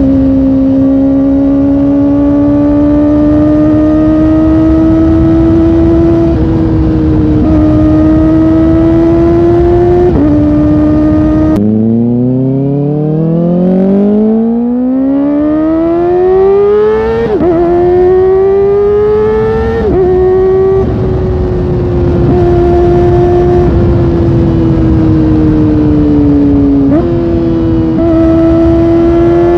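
Kawasaki Ninja ZX-4R's inline-four engine under way at high revs, with heavy wind rush and a few upshifts where the pitch drops suddenly. About twelve seconds in, the wind noise falls away and the engine pulls hard from low revs, its pitch climbing steeply, with upshifts about five and eight seconds later.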